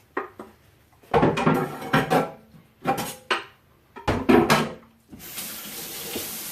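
Dishes, bowls and utensils clattering on a kitchen counter in several short bursts, then a kitchen tap turned on and running steadily about five seconds in.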